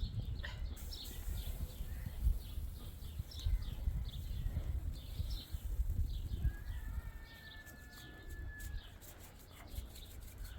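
Small bird chirping over and over, about two short chirps a second, over a low rumble. A thin held tone sounds for about two seconds past the middle, and a few clicks come near the end.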